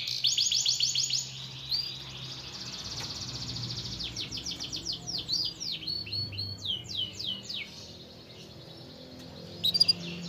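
Domestic canary singing: rapid trills of repeated notes, then slower, separate sweeping whistles that fade away about eight seconds in, with a short loud burst of notes near the end.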